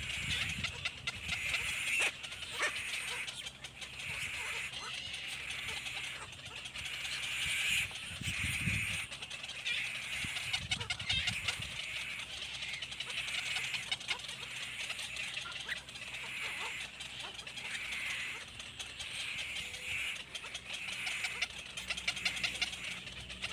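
Baby birds cheeping in repeated bouts every second or two, with a brief low rumble about eight seconds in.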